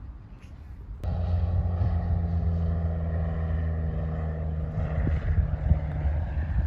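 An engine running steadily with an even, pitched drone, cutting in abruptly about a second in.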